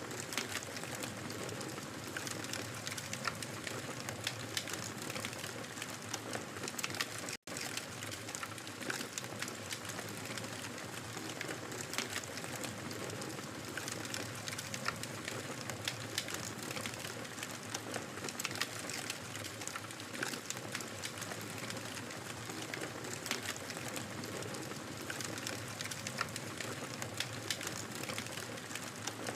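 Wood fire crackling: a steady hiss with many small sharp pops and snaps scattered through it. The sound drops out for an instant about seven seconds in.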